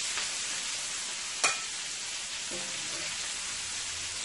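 Shrimp sizzling steadily in hot butter and olive oil in a skillet, fully cooked and being stirred with a slotted spatula. About a second and a half in, the spatula knocks once, sharply, against the pan.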